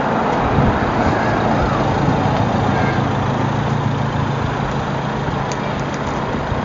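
Steady rumble of a vehicle going by, with a low steady engine or motor hum.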